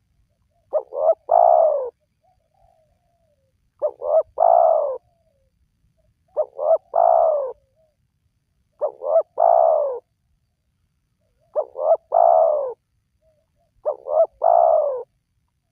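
Spotted dove cooing: six phrases about two and a half seconds apart, each two or three short notes followed by a longer, falling coo.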